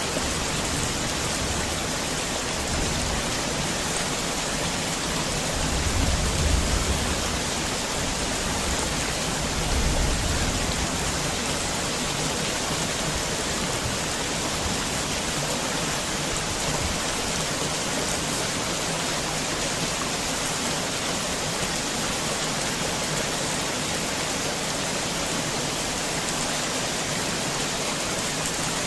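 Heavy rain falling steadily, a dense even hiss, with two brief low rumbles about six and ten seconds in.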